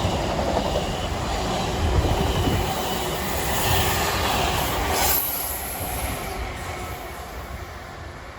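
Passenger train running through the station at speed: a loud rush of the coaches with wheel noise on the rails, fading away over the last few seconds as it goes past.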